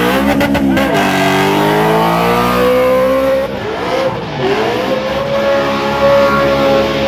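BMW 4.0 L V8 revving hard during a burnout, rear tyres spinning in smoke. The revs rise and fall, dip about three and a half seconds in, then climb back and hold steady near the top.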